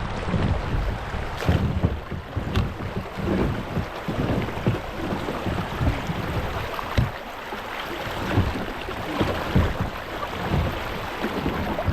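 Kayak being paddled on a shallow creek: water splashing and sloshing against the hull, with irregular low thumps of wind buffeting the microphone.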